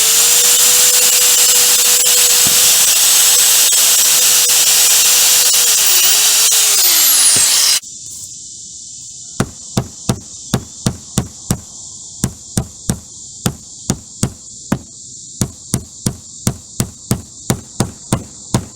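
A power tool runs loudly with a steady whine, which sags in pitch and cuts off about 8 seconds in. A second later, rapid hammer blows on the roof begin, about three a second.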